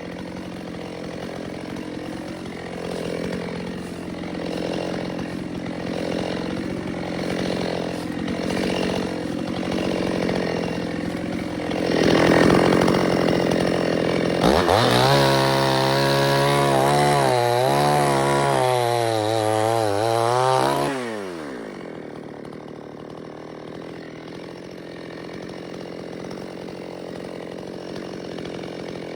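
Two-stroke chainsaw running. About halfway through it is opened up to full throttle and cuts, loud and wavering in pitch under load for several seconds, then drops away suddenly. A steady engine hum runs underneath.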